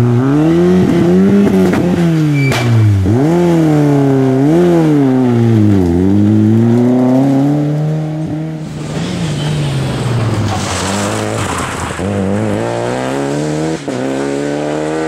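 Rally car's engine revving up and down over and over as it tries to drive out of a roadside ditch. About eight and a half seconds in, a rush of noise, then another rally car's engine accelerating, rising in pitch with a gear change near the end.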